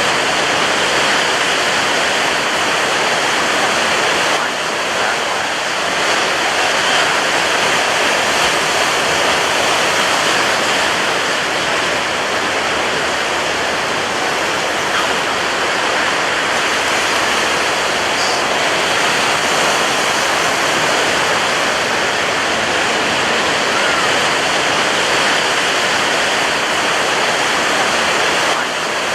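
Ocean surf breaking on a beach: a steady, loud rush of waves with little rise and fall, dipping slightly about four seconds in.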